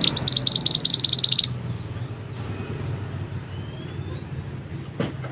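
Mantenan songbird singing a rapid, tightly rolled trill of about a dozen high notes, loud and evenly spaced, lasting about a second and a half, then only faint background bird calls.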